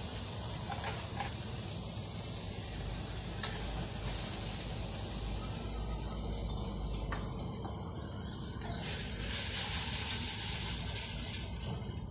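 Carrots and shallots frying in hot oil in a wok, a steady sizzling hiss with a couple of faint taps. The sizzle swells about nine seconds in as boiled egg noodles go into the hot oil.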